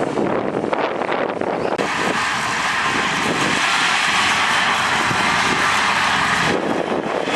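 Heavy earthmoving machinery running: an engine drone with a loud steady hiss that sets in about two seconds in and drops away near the end.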